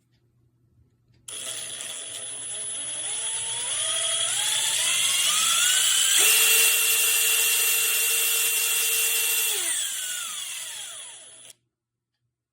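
HiKOKI WH36DD 36V cordless impact driver's motor running: it speeds up in steps with a rising whine for several seconds, holds a steady pitch, then winds down with a falling whine and cuts off suddenly near the end.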